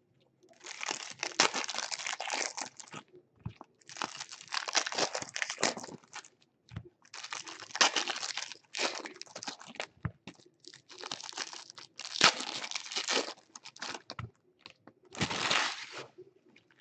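Sealed trading-card boxes being torn open by hand: plastic wrap and packaging crinkling and tearing in about six bursts of one to three seconds each.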